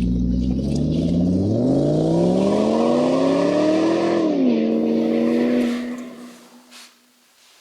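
A motor running with a strong pitched hum that rises steadily in pitch for a few seconds, drops back sharply, holds, then dies away about six seconds in.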